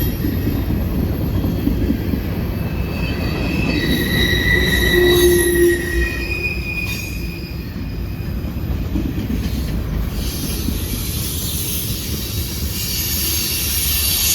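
Freight train rolling through a curve, its wheels squealing against the rail in several high tones of different pitch that come and go over a steady low rumble. Curve squeal like this is common on this stretch of line.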